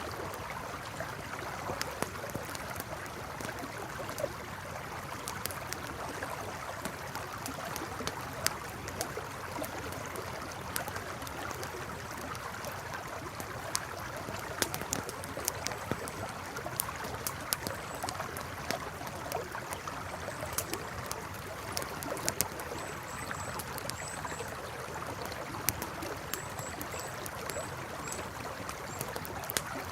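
A river flowing steadily with a campfire crackling over it, sharp pops and snaps scattered throughout. Faint high chirps come in small runs in the second half.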